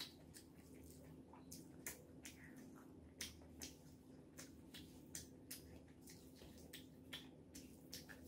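A person eating by hand: faint, irregular wet clicks of chewing and mouth sounds, a few a second, over a faint steady hum.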